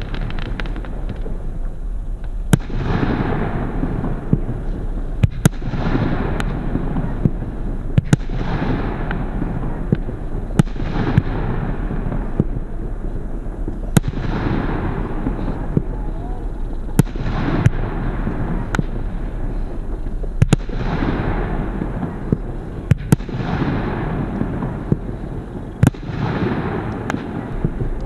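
Wolff 'Disorder' consumer fireworks battery (72 shots, calibre 25) firing: sharp bangs every two to three seconds, each followed by a couple of seconds of hissing, fading noise from the bursting effects.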